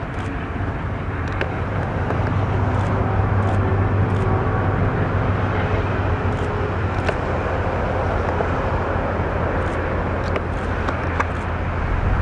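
ALCO diesel locomotive engine drone, slowly growing louder as the train approaches, with a few sharp clicks over it.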